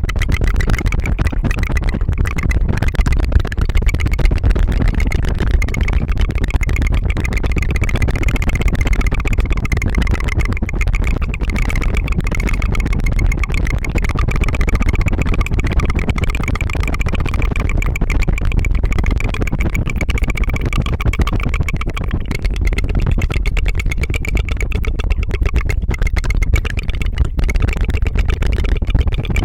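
Continuous tongue fluttering close to the microphone: a rapid, steady putt-putt like a small engine idling.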